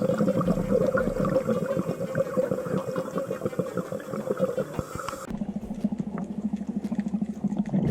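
Watery bubbling and gurgling with a crackly texture. About five seconds in it changes abruptly to a duller, lower rumble.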